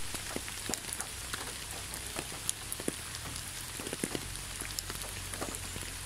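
Rain falling steadily, a continuous hiss dotted with the small ticks of individual drops.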